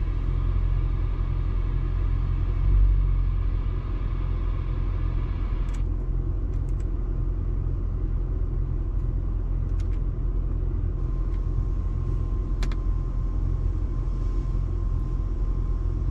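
Ford Fairlane's 5.4-litre three-valve V8 idling steadily, a low even rumble. A thin, steady high whine sits over it for the first six seconds or so and returns about eleven seconds in.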